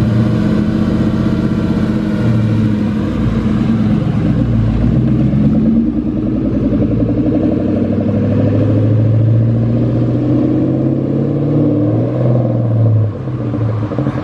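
Manual Ford Mustang's engine revving up and down as an inexperienced driver slips the clutch to pull away. The clutch is being burned in the process.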